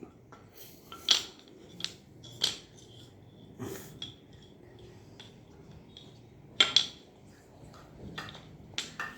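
Toy train track pieces being handled and fitted together: a scattering of sharp clacks and knocks at irregular intervals, the loudest a little after halfway.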